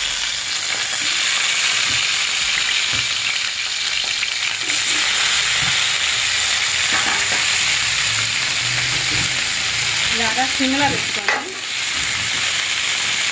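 Whole stuffed brinjals frying in hot oil in an aluminium pan, giving a steady sizzle. One short sharp knock comes about eleven seconds in.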